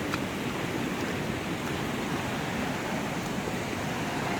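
Flash-flood water rushing through a desert canyon wash, a steady rush with no break.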